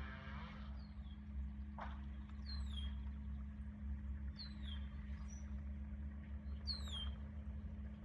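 A bird calling with short, high whistled notes that fall in pitch, about four times, over a steady low hum. A single sharp knock sounds about two seconds in.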